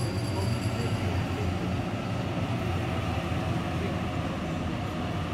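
Sydney Trains electric passenger train running with a steady rumble, a faint high whine fading out about a second in.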